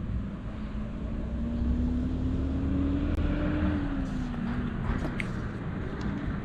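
A motor vehicle driving past, its engine hum rising in pitch and getting louder toward the middle, then falling away over a low road rumble.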